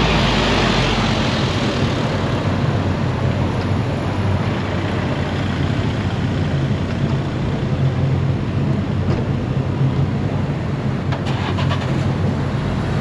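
A motor vehicle's engine running close by, steady with a low hum and slightly louder at the start, with a few faint clicks about eleven seconds in.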